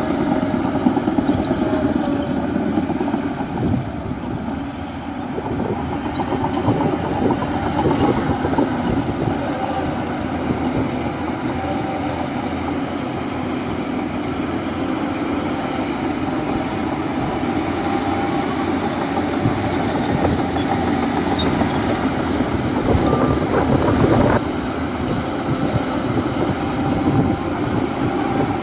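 Shantui crawler bulldozer's diesel engine running under load, with the metal clatter of its tracks and scattered knocks.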